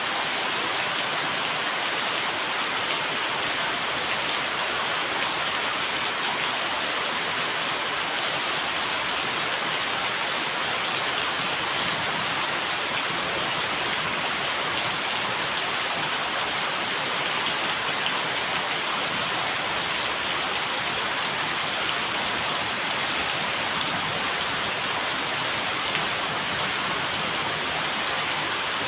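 Steady heavy rain falling, an even dense hiss of drops on surfaces.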